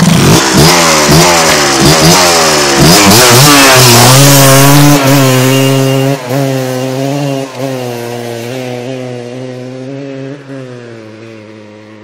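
Kawasaki KMX 125 two-stroke single-cylinder engine through its original exhaust, revved in several quick blips. It then holds a steady speed and fades gradually, as if riding away.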